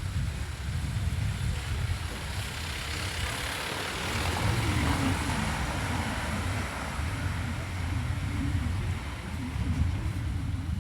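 A road vehicle passing along a town street, its engine and tyre noise swelling over a few seconds and fading away, over a steady low rumble.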